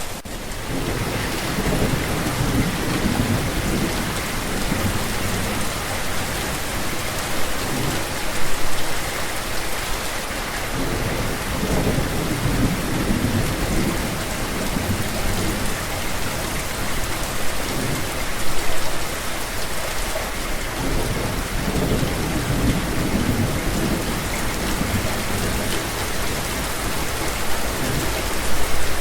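Steady rain falling, with low rumbles that swell and fade several times.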